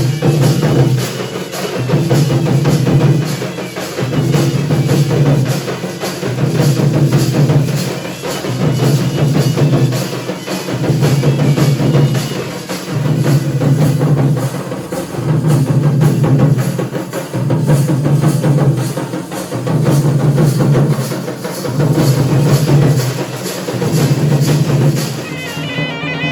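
Dhol and nagada drums played together: fast, continuous strokes over a deep drum beat that swells in a steady cycle about every two seconds, easing off near the end.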